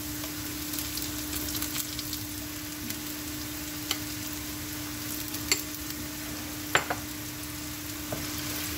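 Minced onion, garlic and ginger sizzling steadily in hot oil in a pan while a wooden spatula stirs them, with a few sharp taps of the spatula on the pan.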